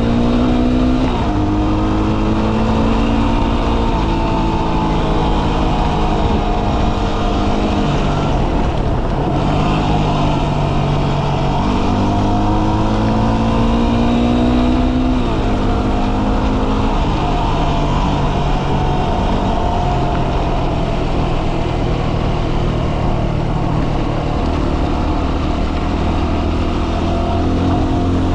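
Dual-sport motorcycle engine accelerating through the gears. Its pitch climbs steadily and then drops at each upshift, several times over, above a steady rush of wind and road noise.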